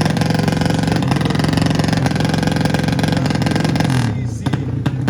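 Drag-racing underbone motorcycle with a 200cc engine running flat out at high revs at a steady pitch, then its note drops and fades about four seconds in.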